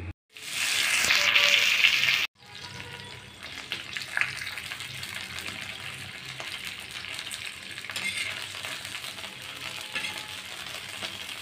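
Okra pieces frying in hot oil on a flat tawa: sizzling and crackling, loudest for about the first two seconds, then a steadier sizzle with scattered light clicks.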